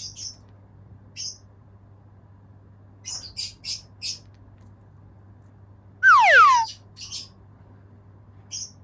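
Cockatiel making short, high chirps, a quick run of four about three seconds in, then one loud whistle that falls steeply in pitch about six seconds in, followed by a few more chirps.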